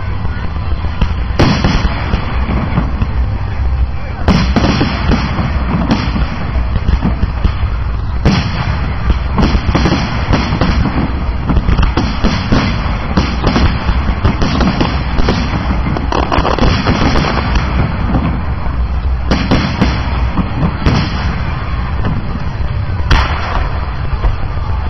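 Fireworks display: aerial shells bursting in a continuous barrage of bangs and crackle. The heaviest booms come about 1.5, 4, 8, 19, 21 and 23 seconds in.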